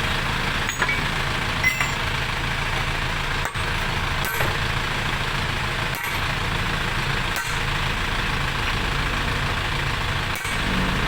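An engine idling steadily, with a few light ticks.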